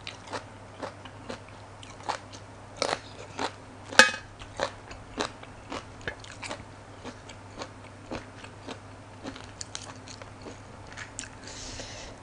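Close-miked chewing of a mouthful of crisp raw vegetables: short wet crunches about two a second, with one sharp loud crunch about four seconds in. A brief soft rustle comes near the end.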